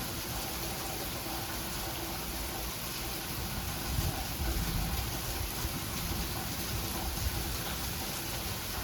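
Heavy sleet, ice pellets, falling and pattering on surfaces in a steady hiss, with an uneven low rumble underneath.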